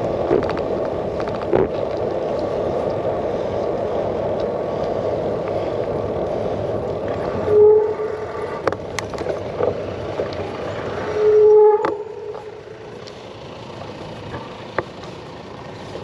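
Riding noise from a bicycle's handlebar-mounted camera: steady wind on the microphone and rumble from the tyres. About eight and eleven seconds in come two short squeals, the second a little longer, and after them the riding noise is much quieter.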